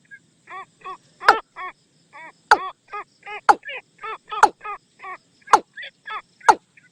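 Watercock calling, played as a decoy call to lure the birds in: a steady run of short, arched, hollow notes, three or four a second, broken about once a second by a louder sharp downward note.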